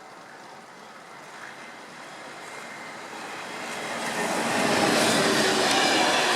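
Train approaching along the track, its rushing noise swelling from faint to loud over about two seconds around the middle and then holding steady as it comes alongside.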